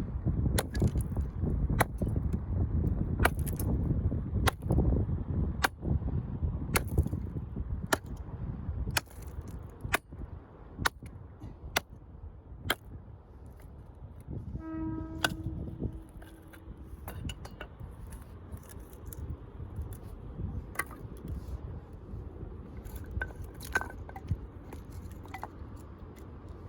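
Sharp wooden cracks and knocks, about one a second at first and fewer after the middle, with wind rumbling on the microphone early on. A short pitched horn-like note sounds once about halfway through.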